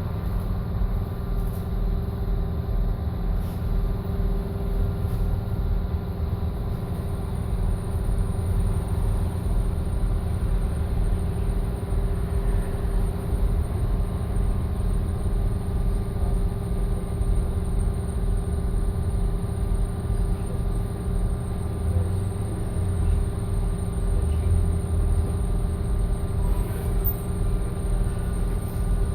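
BKM-221 trolleybus under way, heard from inside the passenger cabin: a steady low rumble of running gear and road, with a constant hum held underneath.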